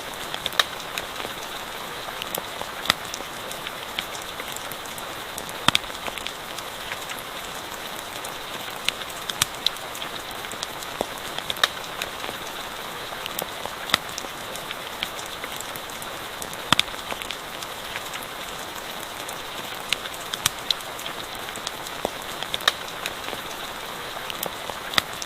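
Steady rain hiss with irregular sharp crackles and pops from a campfire burning in the rain.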